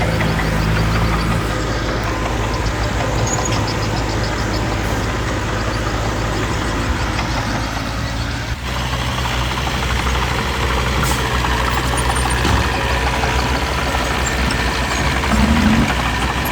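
Diesel engines of heavy earthmoving machinery running steadily, with a brief dip in level a little past halfway.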